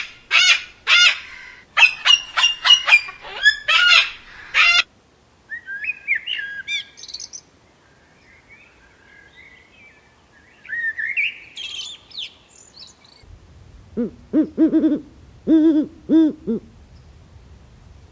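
Bird calls from several different birds in turn. First comes a quick series of loud, high, repeated calls. Then softer, twisting song, and near the end low-pitched notes in two short groups.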